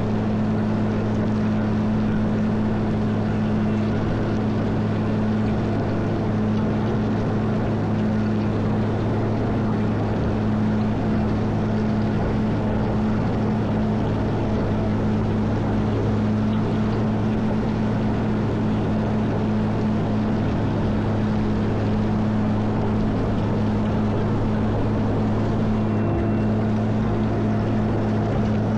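Caterpillar 140M motor grader's diesel engine running at a steady speed, a constant low drone.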